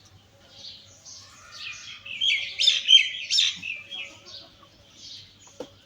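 Birds chirping: short high chirps repeating about twice a second, with a louder flurry of chirps in the middle, and a brief click near the end.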